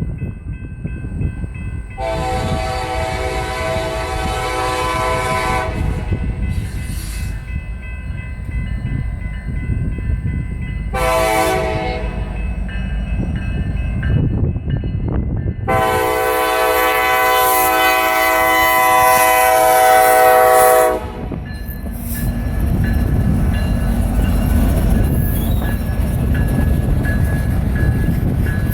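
BNSF freight train's diesel locomotive sounding its multi-tone air horn in three blasts, long, short, then a longer, louder one, over the steady rumble of the train. After the last blast the rumble of the rolling train grows louder as the train passes.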